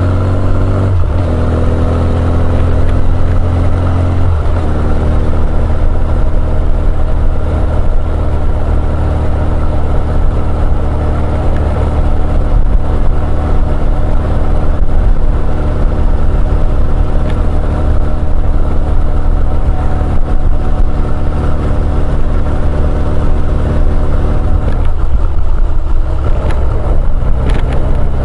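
Honda CB1100EX's air-cooled inline-four running on the road through an R's Gear Wyvern Classic aftermarket exhaust, heard from on board. The engine note is mostly steady, shifting about four seconds in and again near the end.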